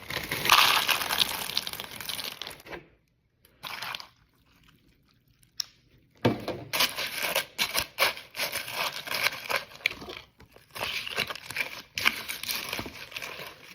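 Plastic cereal-bag liner crinkling and rustling with sharp crackles, in two long stretches a few seconds apart.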